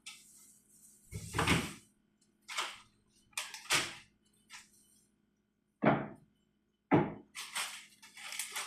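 A series of separate knocks and clunks, about eight over several seconds with short gaps between them: household objects being handled and set down while a table is laid.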